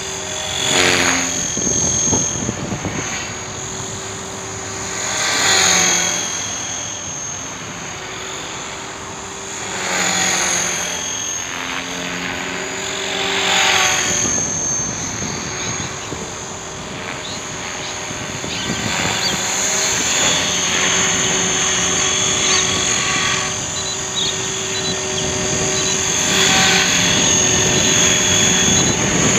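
Hobbyking radio-controlled helicopter in flight, its rotor and motor running with a whine that shifts in pitch. The sound swells and fades several times as it flies about, then holds steadier and louder in the second half.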